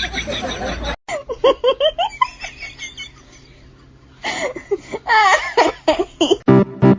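People laughing in short repeated bursts, with a quieter pause in the middle.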